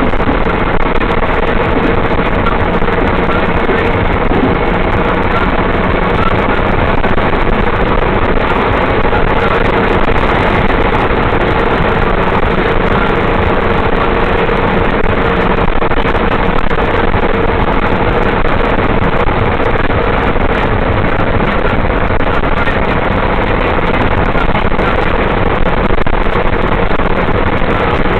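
Steady car engine and road noise from a vehicle driving, even throughout with a steady hum and no single impact standing out.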